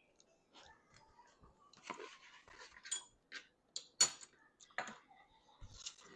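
Metal spoon clinking against pots and dishes: a scatter of light taps and clinks, the sharpest two about three and four seconds in, each with a brief ring.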